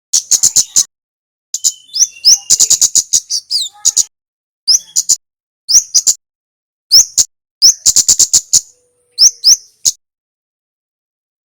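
Kemade (a flowerpecker) singing: phrases of sharp, dry high ticks in quick runs, mixed with short rising chirps, each phrase up to about a second long and separated by brief pauses.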